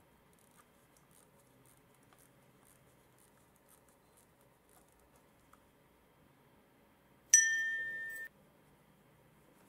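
A single bright chime, a ding about seven seconds in that rings out and fades over about a second. Before it there are only faint small clicks as a watch crown is unscrewed.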